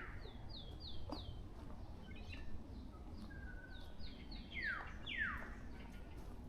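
Forest birds calling, a black-naped oriole among them: two quick runs of four short high chirps, and near the end two long calls sliding steeply down in pitch.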